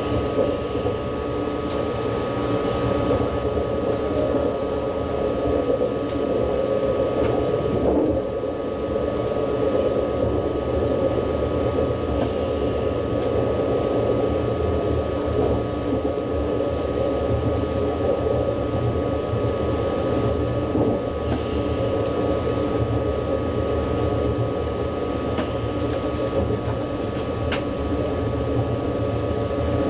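Steady running noise of an ICE high-speed train heard from inside the driver's cab, with a constant high hum over it. Brief high hisses come about 12 and 21 seconds in.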